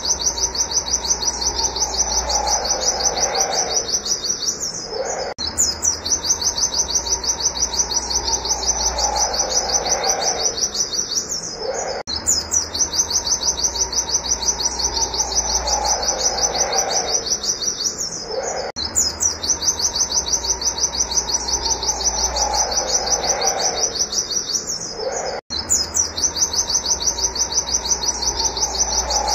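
Pleci (white-eye) singing a fast, unbroken run of repeated high 'wit wit' notes, many to the second, with brief breaks every six or seven seconds. A lower falling sound recurs beneath it.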